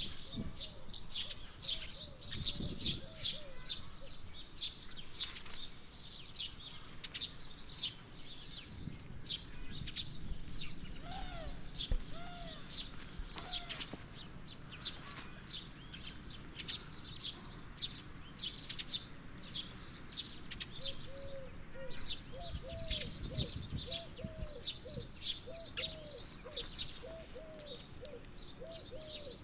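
Small birds chirping busily and without pause, with a run of short, lower repeated calls joining in around the middle and again through the last third. Two brief low rumbles come in early on and past the two-thirds mark.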